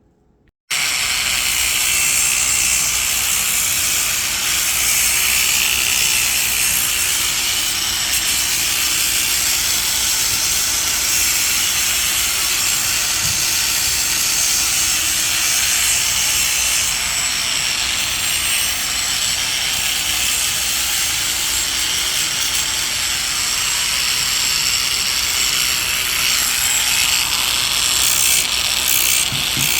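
Power polisher spinning diamond polishing pads against the edge of a granite sink cutout: a steady grinding hiss that starts abruptly about a second in. This is the edge being polished through successive pad grits.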